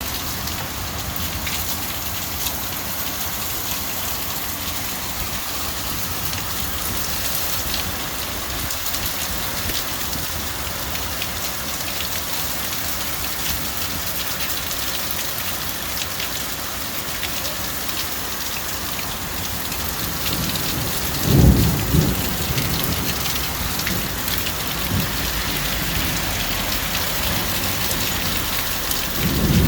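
Rain falling steadily during a thunderstorm, with a low rumble of thunder about two-thirds of the way through and another starting near the end.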